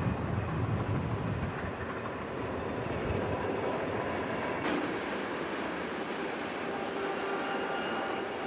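Freight cars rolling past on the rails, a steady rumble and rush of wheels that is heaviest in the first few seconds.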